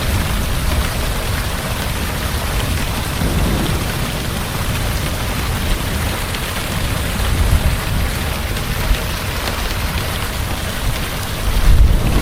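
Heavy rain falling steadily, with a low thunder rumble underneath that swells near the end.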